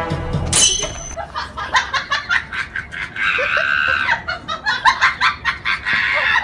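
Laughing in quick repeated bursts, about four to five a second, with a longer, higher-pitched stretch partway through.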